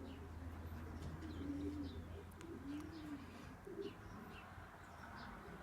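Pigeons cooing softly, a string of short low coos about once a second, with faint chirps of small birds and a low hum underneath.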